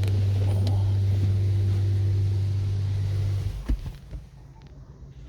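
Steady low motor hum heard from inside a car in an automatic car wash. It stops about three and a half seconds in and is followed by a single thump.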